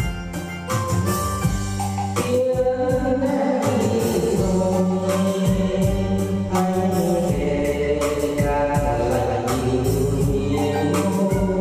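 Singing over a musical backing, with a steady repeating bass line underneath the voice.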